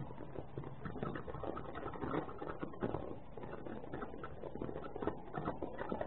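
Birds calling and chirping, with a dense run of small irregular clicks and ticks, through a security camera's microphone.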